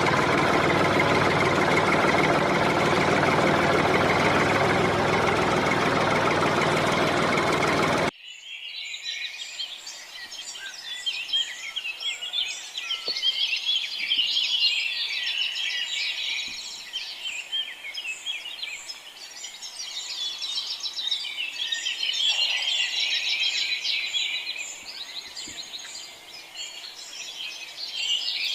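Many chicks peeping, lots of short high chirps overlapping, after a loud, steady mechanical noise that cuts off suddenly about eight seconds in.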